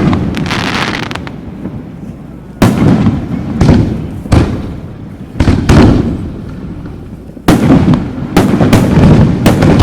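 Aerial fireworks shells bursting in a string of loud booms, each trailing off in a rolling rumble. There is a crackling spray in the first second, a lull of about two seconds, then eight or so bursts, coming faster near the end.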